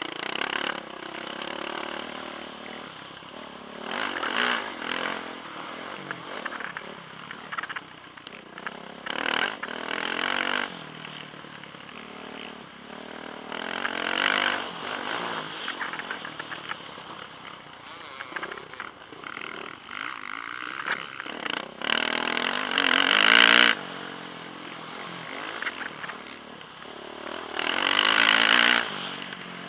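Motocross bike engine heard from the rider's helmet camera, revving hard and easing off again and again as it races round the track. The loudest surges come about 4, 10, 14, 23 and 28 seconds in.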